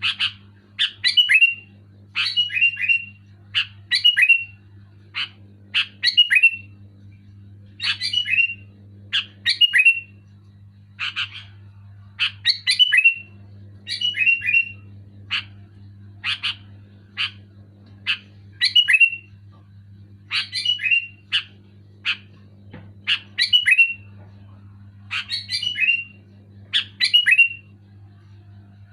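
Sooty-headed bulbul (kutilang) calling over and over: short, loud phrases of quick whistled notes, about one phrase a second, over a steady low hum.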